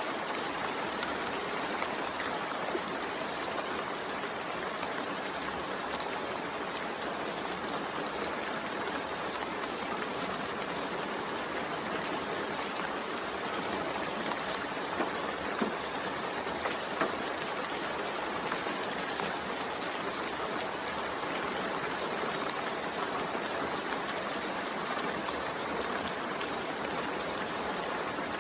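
Steady rain falling, an even hiss with a few slightly louder drop ticks about halfway through.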